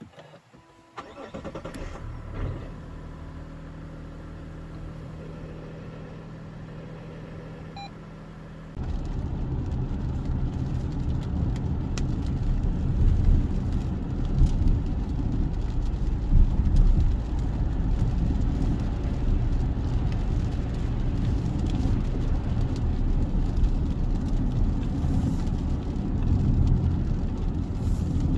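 Mazda CX-60's 3.3-litre straight-six diesel just after start-up: a steady hum, then about nine seconds in an abrupt change to a much louder, rough low rumble. This is the post-start noise that the owner presents as an abnormal noise appearing after the recall work.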